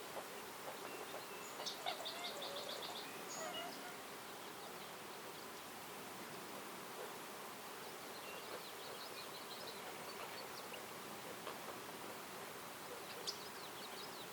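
Woodland ambience: small birds calling in quick runs of short, high notes, one run about two seconds in, another around nine seconds and a brief one near the end, over a steady background hiss.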